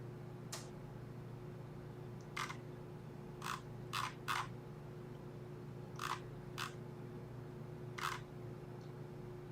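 Computer mouse clicking: about eight short, sharp clicks at irregular intervals over a steady electrical hum.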